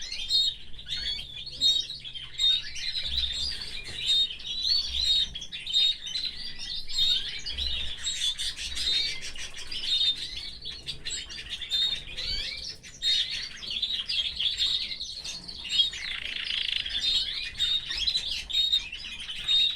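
Domestic canary singing a continuous song of rapid trills and chirps, without a break.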